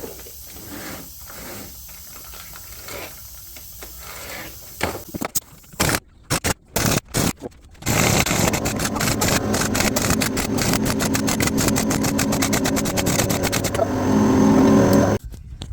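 Impact wrench tightening the ring gear bolts on a differential carrier: a few short trigger bursts, then a long run of rapid hammering that cuts off sharply.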